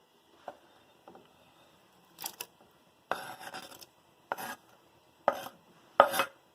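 A utensil scraping and knocking against a dish and pot in about seven short strokes, the loudest near the end, as chopped vegetables are tipped into the pot of rice and water.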